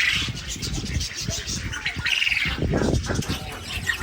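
Birds calling, with a louder call at the very start and another about two seconds in.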